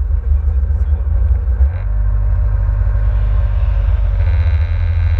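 Kawasaki Ultra 150 jet ski's engine running with a steady low rumble.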